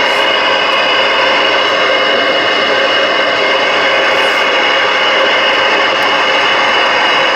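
Ranger RCI-69VHP radio's loudspeaker hissing with loud, steady receiver static, with faint steady whistles through it, as the radio listens on its antenna.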